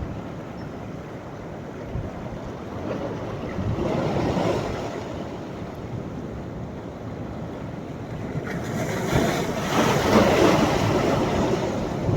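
Sea waves breaking and washing up the shore as a steady surf hiss. Two waves surge in, one about four seconds in and a louder one near ten seconds.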